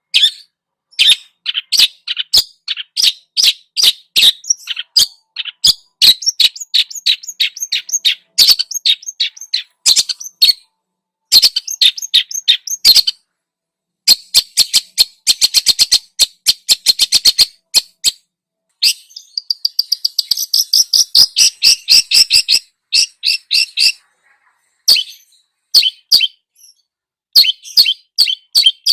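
Songbird song: fast runs of short, sharp chattering notes in bursts broken by brief pauses, with a denser, faster run in the middle.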